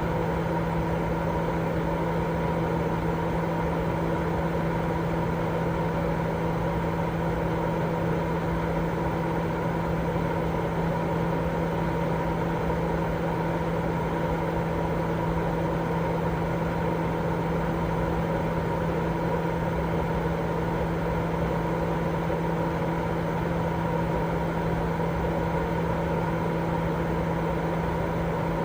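Steady, unbroken white noise for lulling a baby to sleep: an even rushing hiss, fuller in the low and middle range than the top, with a steady low hum underneath.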